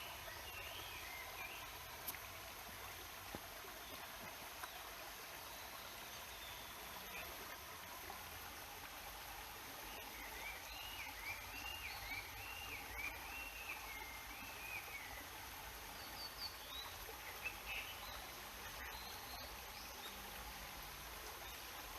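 Steady rush of a stream and waterfall, with a small bird calling in short chirping phrases over it and a run of quick repeated up-and-down notes about halfway through.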